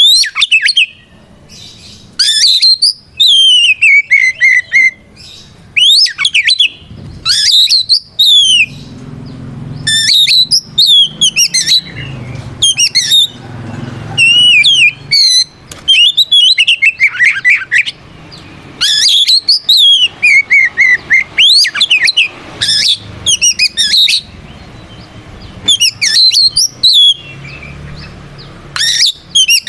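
Oriental magpie-robin (kacer) singing loudly in repeated phrases of sweeping whistles and fast chirping notes, with short pauses between phrases. This is its full, open fighting song, a challenge call to a rival male.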